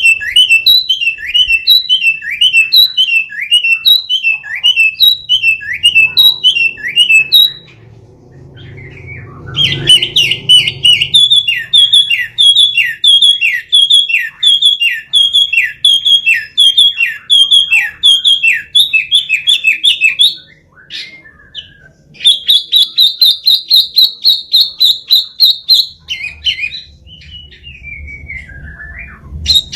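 Red-billed blue magpie (burung wambi) calling: loud, fast series of repeated falling notes at about two a second, in three long bouts broken by short pauses, with a descending slur near the end.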